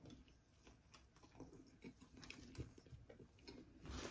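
Faint chewing of a mouthful of dipped Italian beef sandwich, with scattered small wet clicks of the mouth and bread. Near the end there is a soft knock.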